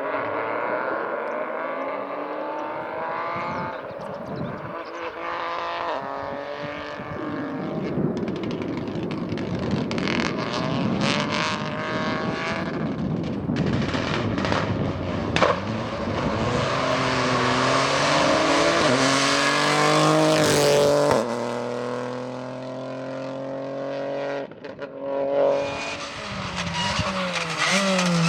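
Rally cars at full speed: the engines rev hard, climbing in pitch through each gear and dropping back at every shift, and one passes close near the end with its pitch falling away.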